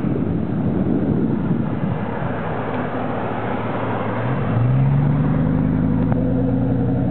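Wind rushing over the microphone of a moving bicycle, then from about four seconds in a steady engine idle hum from a Chevrolet Suburban stopped just ahead.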